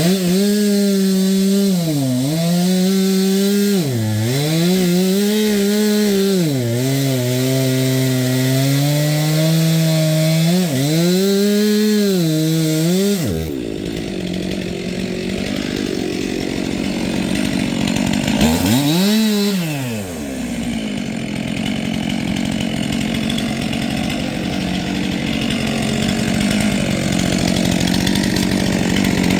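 Stihl chainsaw with a new chain cutting wood: the engine runs at high revs and its pitch sags and recovers several times as the chain bites into the cut. About halfway through the sound turns to a denser, steadier noise, with one quick rev up and down a little after the middle.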